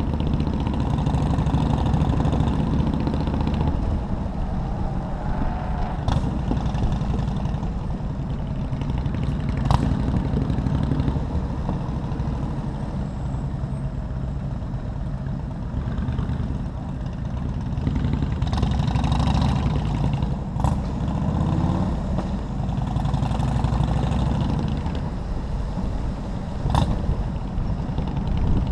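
Motorcycle engine running steadily at low speed in city traffic, a low drone, with a few sharp clicks along the way.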